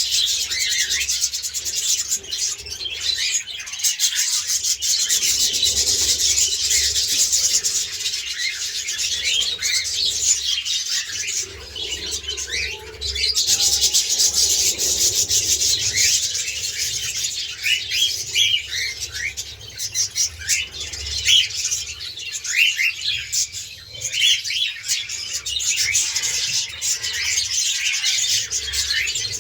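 A flock of budgerigars and cockatiels chirping and chattering all at once: a dense, continuous twittering of many short, high calls.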